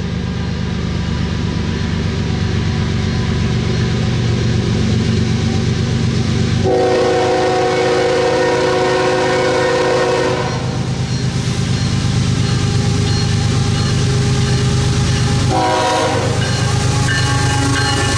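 Diesel locomotives of a freight train rumbling past, with the locomotive air horn sounding a chord in a long blast about a third of the way in and a shorter blast near the end.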